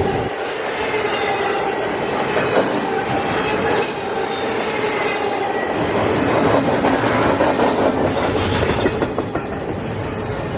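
Freight cars of a CSX manifest train rolling past, wheels clicking over rail joints, with a steady high wheel squeal held under the rumble.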